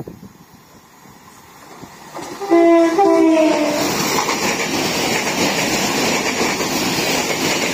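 Northern Ireland Railways Class 4000 diesel multiple unit sounding a short two-tone horn about two seconds in, then passing the platform at speed with a loud, steady rumble.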